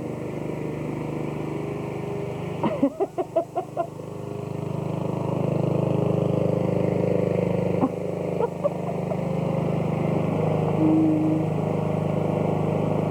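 Riding lawn mower engine running steadily, growing louder from about four seconds in, with a short burst of sharp clattering strokes about three seconds in.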